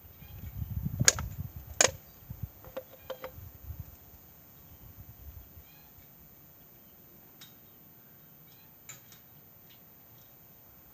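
Two sharp knocks about a second apart over a low rumble of handling noise, then a few lighter clicks and taps, with faint ticks later on.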